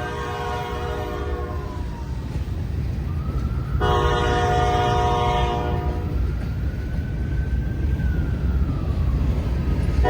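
Diesel locomotive's multi-chime air horn sounding a long blast of about two seconds in the middle, with another starting at the end, over the steady rumble of a passing freight train. Between the blasts a thin tone slides down, then rises and falls.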